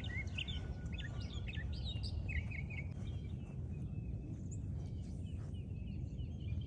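Small birds chirping in quick, short calls, thick for the first three seconds or so and then only now and then, over a steady low rumble.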